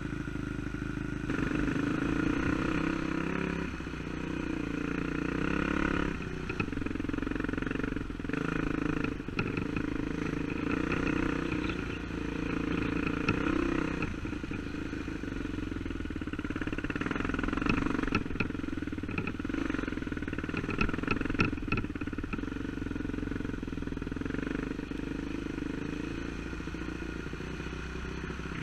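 Dirt bike engine running while being ridden, its pitch rising and falling as the throttle opens and closes. Sharp rattling clicks come in a cluster about two-thirds of the way through.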